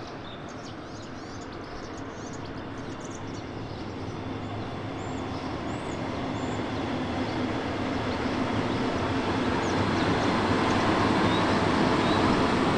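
Electric locomotive and double-deck passenger coaches rolling over a railway bridge, a steady rumble of wheels on rails that grows louder throughout as the train draws closer.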